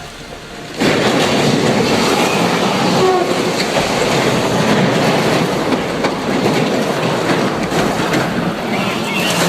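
Freight train rumbling and clattering along the track, a loud steady noise that starts abruptly about a second in.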